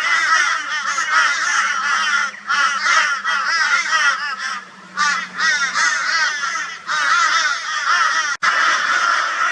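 A flock of crows cawing loudly, many harsh calls overlapping in a continuous raucous din, mobbing a barn owl. There is a short lull about halfway through.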